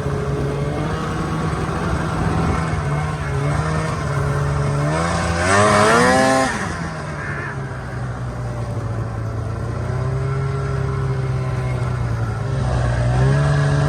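Arctic Cat ZL550 snowmobile's two-stroke engine running, revving up hard about five seconds in and dropping back a second or so later, then picking up again near the end. It runs cleanly now that its fuel problem has been fixed.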